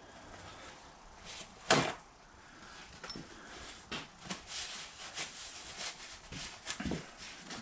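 Rag being worked into a mower's metal front caster housing to clean it out: a sharp knock about two seconds in, then a string of light taps and rubbing.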